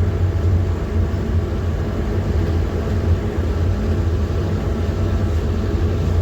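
PAZ-4234-05 bus on the move, heard from inside the cabin: a steady low drone of engine and road noise with no change in pitch.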